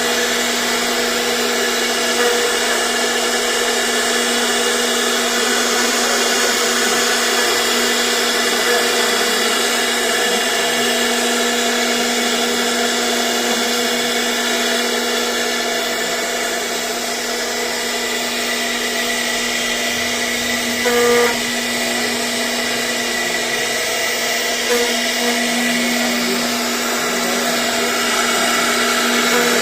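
CNC router spindle running steadily with a constant whine. A short louder knock about 21 seconds in.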